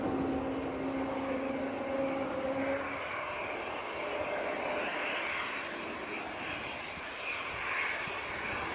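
Jet airliner engine noise: a steady rushing sound with a low hum that drops out about three seconds in.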